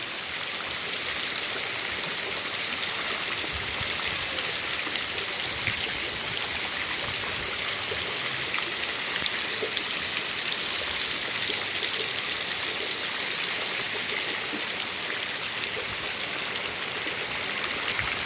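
Heavy rain falling steadily, a dense hiss of countless small drop hits, with runoff water flowing along the street. The hiss eases slightly near the end.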